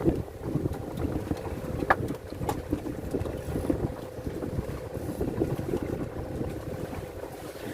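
Strong wind buffeting the microphone on a small fishing boat in rough sea, a dense low rumble with a faint steady hum under it. A single sharp knock about two seconds in.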